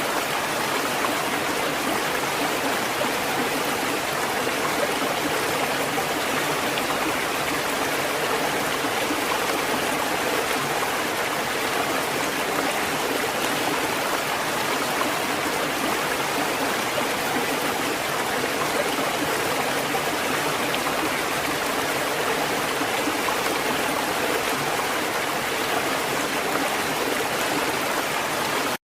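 Steady, unbroken rushing of water, an even hiss without distinct wave surges, that cuts off abruptly just before the end.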